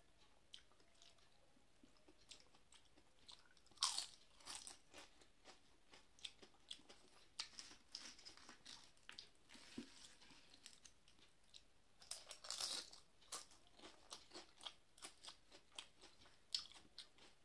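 Quiet close-up chewing and crunching of fried potato chips eaten with rice: irregular crisp crunches, louder about four seconds in and again around twelve to thirteen seconds.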